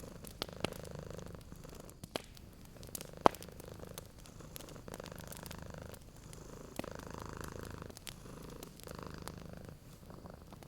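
Domestic cat purring in long stretches of a second or two each, with short dips between them. Sharp pops and crackles of a wood fire are scattered over the purring; the loudest pop comes about three seconds in.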